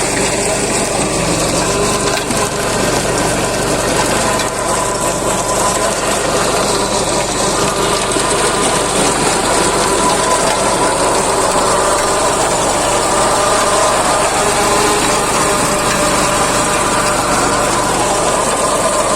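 Swaraj Code 12 hp mini tractor running steadily with its rotavator, a continuous mechanical clatter over the engine.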